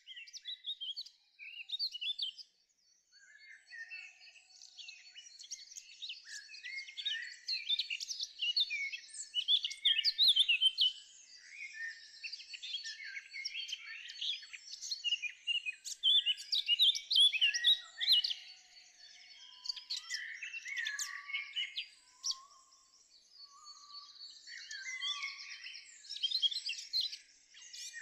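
Birdsong: several birds chirping and singing in quick, high notes, with a short lull about three seconds in.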